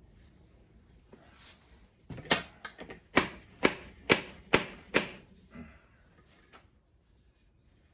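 A length of ABS pipe knocked down repeatedly over a motorcycle fork tube to drive a new fork seal into the fork leg: a run of sharp knocks, about two a second for some three seconds, starting about two seconds in, with lighter knocks between.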